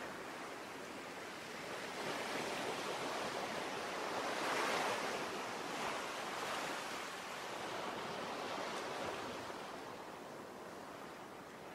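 Ocean waves washing in, with one swell building about four seconds in and easing away again.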